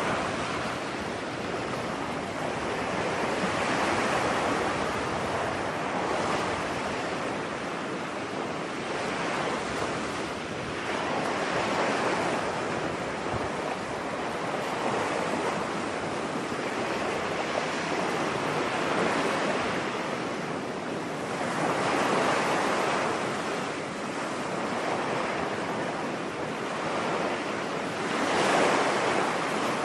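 Ocean surf washing onto a beach, the rush of the waves rising and falling in slow swells every several seconds.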